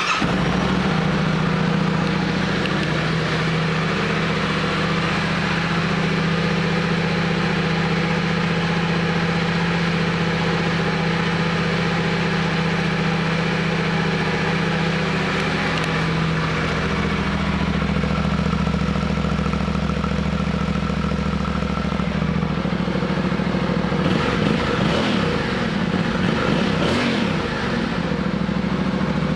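Yamaha Tenere 700's 689 cc parallel-twin engine idling steadily just after start-up, with a few brief throttle blips near the end.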